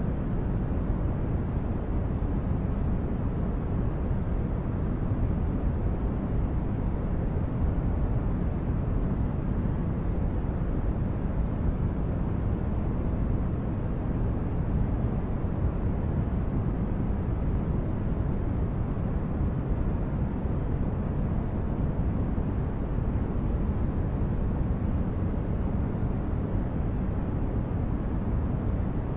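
Steady low spaceship ambience: a deep, even rumble of brown-noise-like hum with no changes or events, like an engine drone heard inside a starship.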